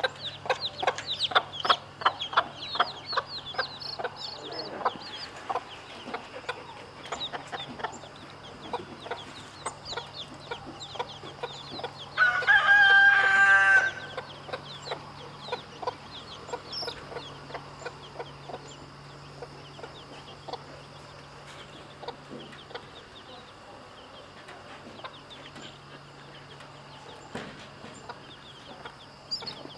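Chicks peeping rapidly and continuously, thinning out in the second half. About twelve seconds in, a rooster crows once, loud, for under two seconds.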